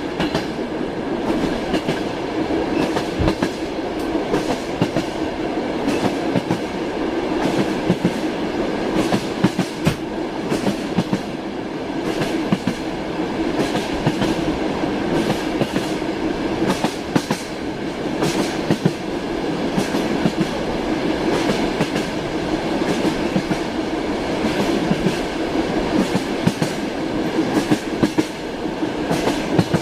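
Moving passenger train heard from inside a compartment car: a steady rumble of the running gear with the wheels clacking over rail joints, many sharp clicks scattered through it.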